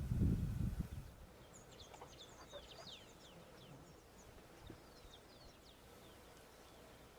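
A low rumble dies away about a second in. Then faint, quick, high chirps and short downslurred calls of small birds follow, many overlapping, thinning out near the end.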